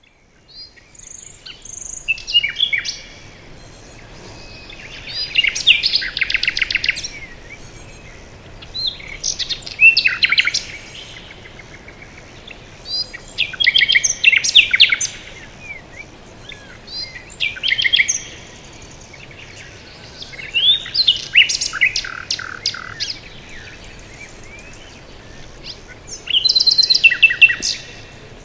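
A songbird singing a series of short, trilled song phrases, seven times, one about every four seconds, over a faint steady background hiss.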